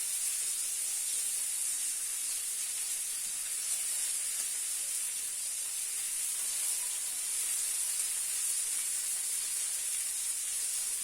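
Steady sizzle from a frying pan holding burger patties in olive oil, with sugar melting and caramelizing around them over the heat.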